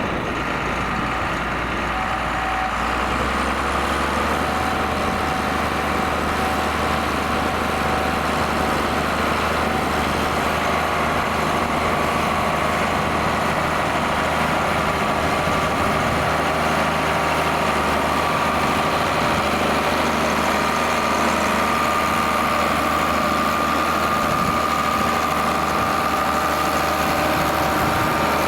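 John Deere 4850 tractor's six-cylinder turbo diesel engine running steadily while pulling a six-furrow plough. A steady whine sits above the engine note, and the low note shifts slightly about three seconds in.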